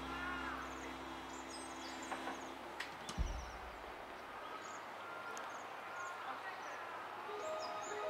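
Background music fading out, then faint outdoor ambience with short, high bird chirps scattered throughout and a single low thump about three seconds in. Music comes back in near the end.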